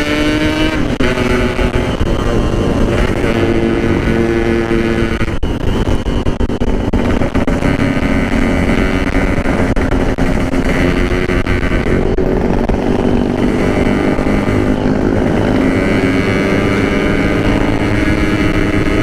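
Yamaha RX-King 135 cc single-cylinder two-stroke engine and exhaust running while riding, its note stepping up and down several times with throttle and gear changes.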